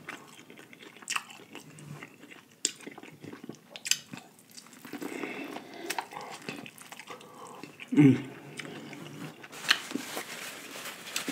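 Close-miked eating: biting into and chewing buttery seafood-boil corn on the cob, with wet mouth clicks and smacks throughout. A louder, short, low sound comes about eight seconds in.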